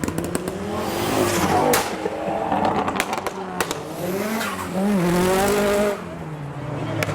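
A car engine revving up and down again and again while its tyres squeal, as a car is being drifted. A few sharp cracks stand out between the revs.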